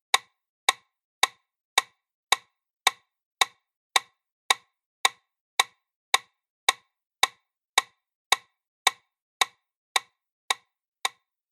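CPR metronome clicking at an even pace of about 110 beats a minute, almost two clicks a second, with silence between: the rhythm used to pace chest compressions.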